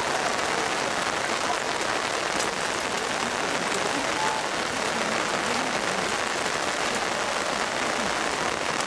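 Heavy downpour of rain hitting umbrellas: a loud, steady, dense patter.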